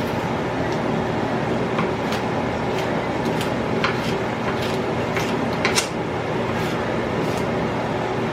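Knife clicking and tapping irregularly on a cutting board while jalapeños are seeded and sliced, about a dozen sharp taps, the loudest about six seconds in, over a steady background hum.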